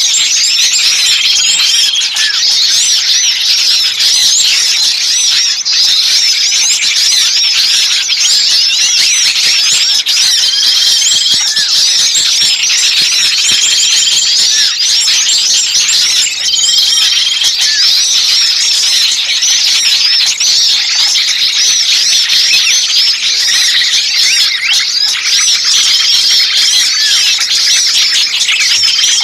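A dense, loud chorus of many small songbirds calling agitatedly over one another, the kind of 'ribut' alarm-chatter used as a lure to draw small birds in. A short, steady whistled note recurs every couple of seconds through the chatter.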